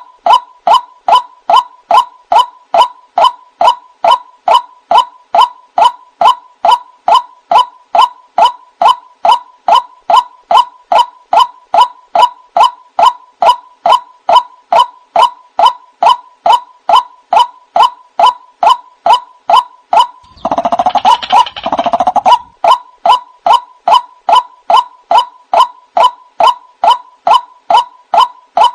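White-breasted waterhen calling: a steady, rapid series of short, ringing notes, about two or three a second. About twenty seconds in, a brief, harsher, denser burst of calling breaks the series before the even notes resume.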